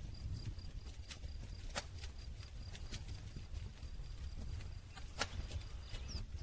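Wood campfire crackling: irregular sharp pops and snaps, the loudest about two seconds and five seconds in, over a low steady rumble of the burning fire.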